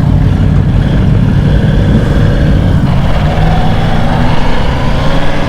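Superbike engines running with a steady low rumble, and an engine note rising gently about three seconds in as the bikes move off.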